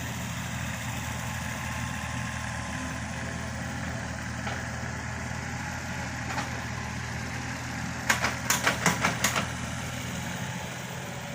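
Kubota KX91-3 mini excavator's diesel engine running steadily while it digs. About eight seconds in comes a quick run of about seven sharp clacks.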